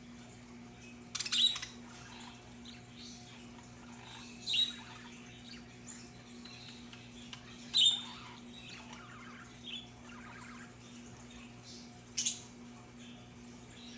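Budgerigars calling: four loud, short, sharp squawks spaced a few seconds apart, with softer chattering between them.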